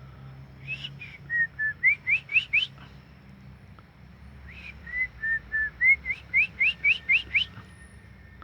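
A person whistling a calling phrase to a caged white-rumped shama, twice: each phrase is a few level notes followed by a quick run of five or six rising whistles.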